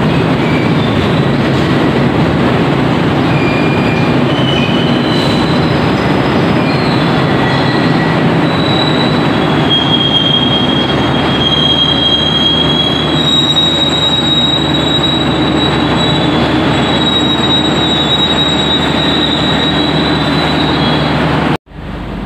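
Passenger train rolling into the station and braking, with a steady low rumble and high, wavering wheel and brake squeals that grow louder in the second half. The sound cuts off abruptly near the end.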